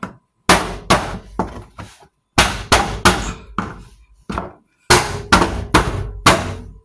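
Indesit washing machine's front filter cover being banged back into place: three runs of sharp knocks, four or five in each run, with short pauses between the runs.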